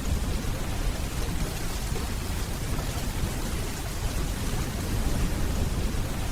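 Steady rainfall, with a low rumble of distant thunder underneath.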